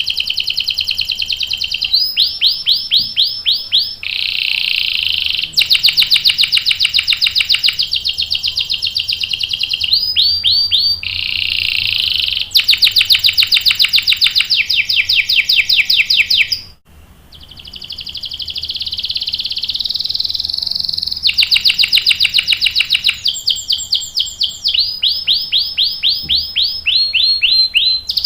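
Domestic canary singing continuously in long rolls: fast buzzing trills alternating with runs of rapidly repeated sweeping notes, with a short break about two-thirds of the way through.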